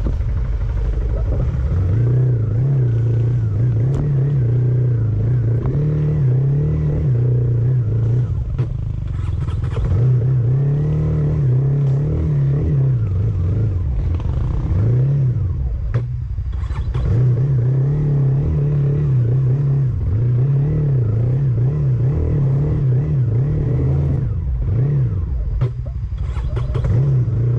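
A motor vehicle's engine running, its low drone rising and falling in pitch as the speed changes, with a few knocks now and then.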